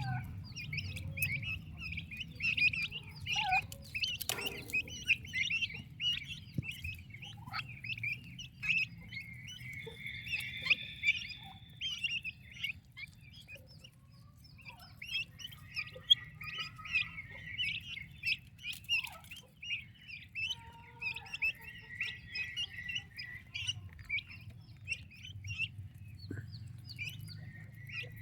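Turkey poults peeping: a constant chorus of short, high chirps, with a longer held call about ten seconds in, over a low steady hum.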